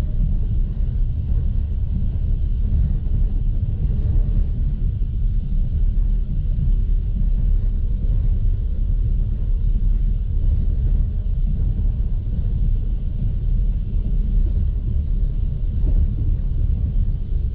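Steady low rumble of a passenger train coach running along the track, heard from inside the carriage at the window.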